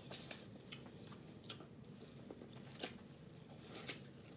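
A person eating close to the microphone: biting and chewing, with a string of short, crisp clicks at irregular intervals.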